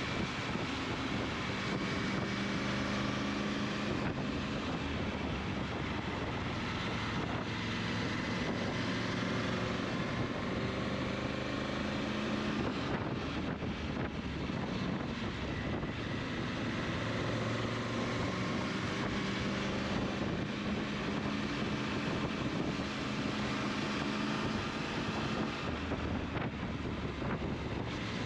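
Steady engine drone with wind noise on the microphone, its pitch shifting slightly now and then.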